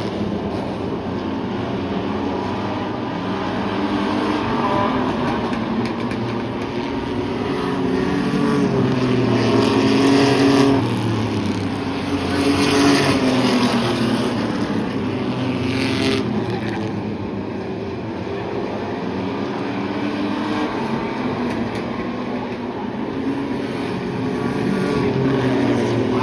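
Race trucks running laps in a feature race, several engines revving and rising and falling in pitch as they pass, loudest as trucks go by near the middle.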